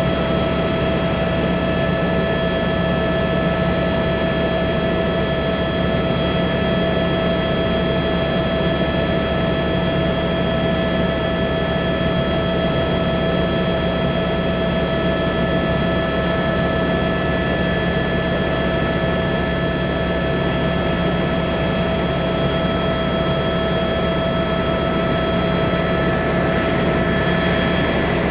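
Tour helicopter in flight, heard from inside the cabin: steady engine and rotor noise with constant whining tones above it.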